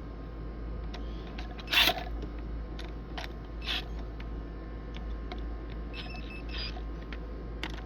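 Screws being tightened into a sprinkler valve's bonnet with a power drill: a couple of short trigger bursts, the loudest about two seconds in, among scattered clicks of the tool and valve being handled.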